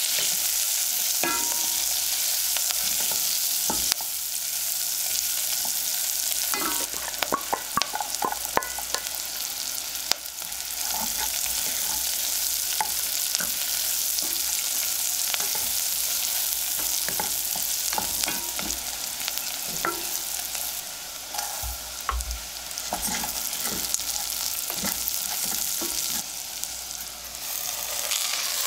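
Bacon and onion sizzling in rendered bacon fat in a stainless steel pot, with a wooden spoon scraping and knocking against the pot as it stirs. A flurry of clicks about a third of the way in, and a rattle with a low thud past the two-thirds mark as dry farro grains are poured in.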